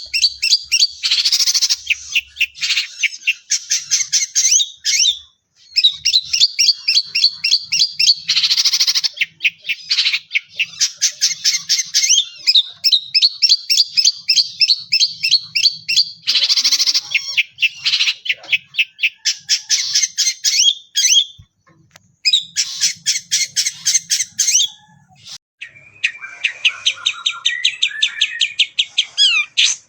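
Long-tailed shrike singing a loud, fast song of rapid-fire runs of high repeated notes, broken now and then by harsh squawks and short pauses. The song is filled with mimicked calls of other birds.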